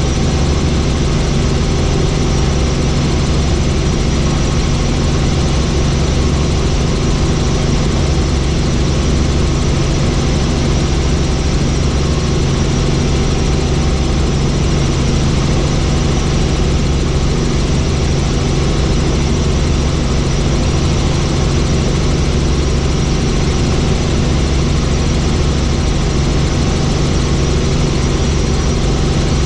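Helicopter in flight: steady, loud engine and rotor noise with a constant low hum.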